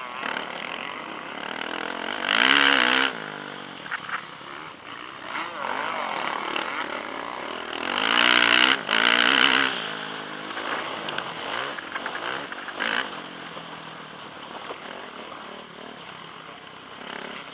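Motocross bike engine heard from the rider's helmet camera while racing, with the throttle opened hard twice, about two seconds in and again around eight seconds, the engine note rising and wavering, and running lower between.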